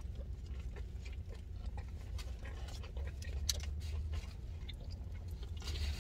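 Chewing a crispy fried chicken sandwich, with scattered small crunches and mouth clicks over a low steady hum.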